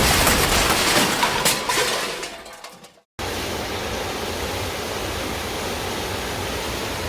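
Rushing water of a mountain stream, loud at first and fading out over about a second; after a brief silent cut, a steady, quieter rush of flowing water resumes.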